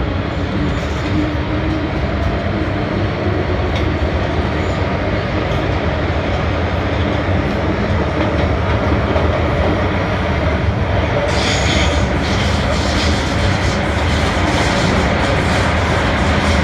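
MTR Island Line M-Train running between stations: a steady rumble of wheels on rail with a low motor hum. About 11 seconds in, a louder hissing screech joins the rumble and carries on.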